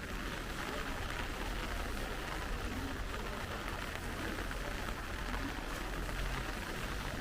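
Steady rain falling and pattering on surfaces, an even hiss, with a low rumble underneath.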